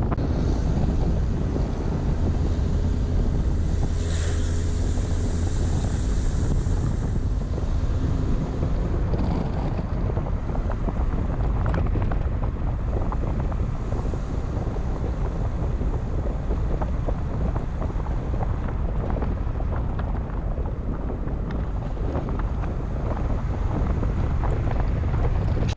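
Vehicle running on the road with heavy wind buffeting the microphone, and a low engine hum under the rushing noise.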